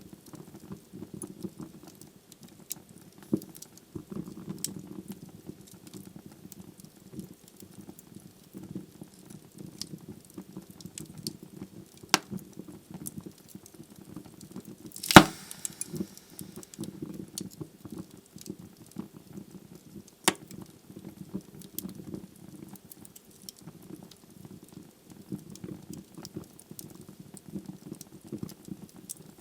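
Wood fire burning with a steady low rumble and constant small crackles. Louder pops stand out about 3, 12 and 20 seconds in, and the loudest, with a brief hiss after it, comes about halfway through.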